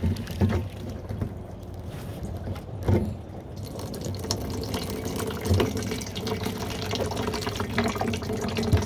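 Water pouring and splashing out of a homemade jug rain-storage tank as its valve is opened, the flow building up a few seconds in, with a few knocks.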